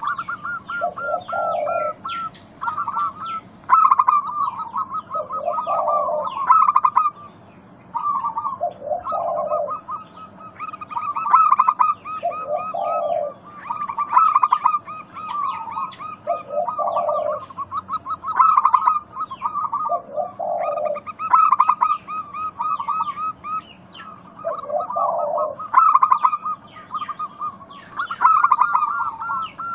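Zebra doves (local perkutut) cooing, a short coo phrase every three to four seconds. Continuous rapid high-pitched chirping of other birds runs underneath.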